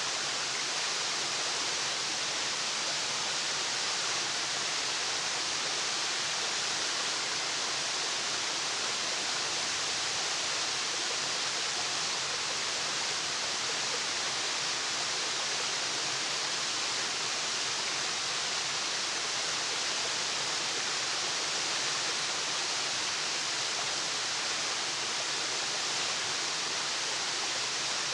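Waterfall: a steady, unbroken rush of falling water, strongest in the hiss range, with no change in level and no birds or other sounds standing out.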